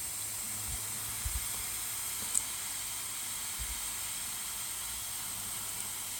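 Steady, even background hiss with a few faint low knocks and one small tick about two and a half seconds in, with no distinct soldering sizzle standing out.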